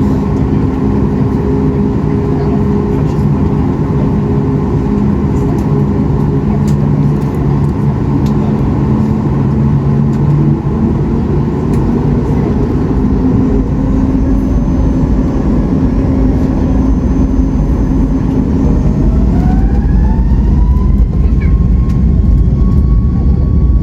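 Jet engine noise of a Boeing 737 MAX 8-200 heard from the cabin: a steady hum that, about nineteen seconds in, turns into a rising whine as the engines spool up, getting louder toward the end.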